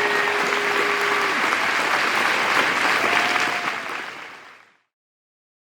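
Crowd applauding with a few voices calling out, fading out after about four seconds.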